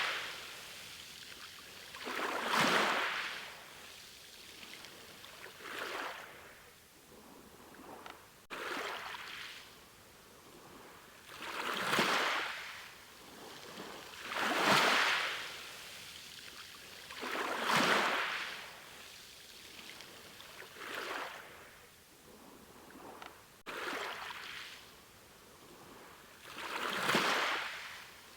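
Ocean waves washing in on a shore, a surge of surf about every three seconds, each one swelling and then fading away.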